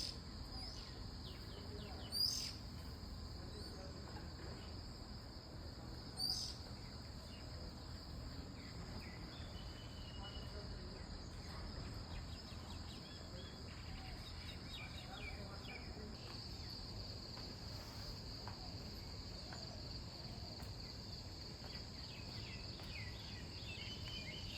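Steady high-pitched insect chorus of crickets or cicadas. A bird gives a short, sharp rising call three times over the first several seconds, and fainter bird chirps follow.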